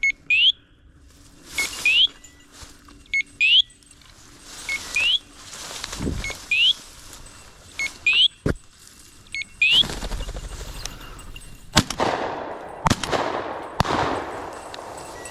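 A dog's electronic beeper collar chirping a short rising tone about every second and a half. Near the end come three loud sharp shots in quick succession, shotgun fire at a flushed bird.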